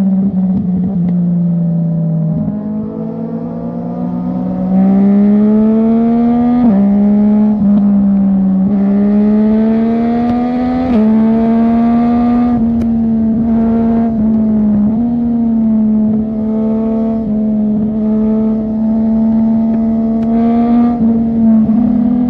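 Loud sport motorcycle engine with a free-flowing aftermarket exhaust, running hard at highway speed. Its pitch climbs under throttle and drops in steps several times as the revs change between gears.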